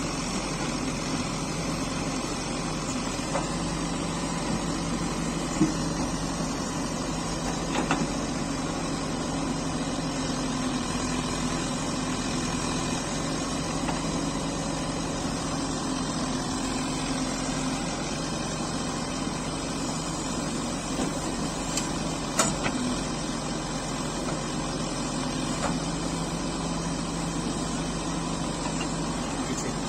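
Diesel engine of a backhoe loader running steadily while it digs and loads soil, with a few sharp knocks now and then.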